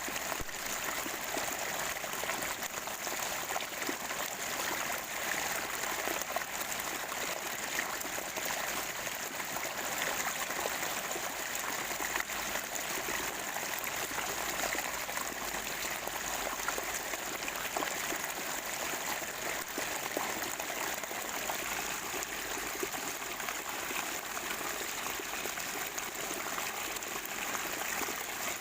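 Spring water trickling and gurgling steadily in a small stream, with a continuous busy splashing that stays even throughout.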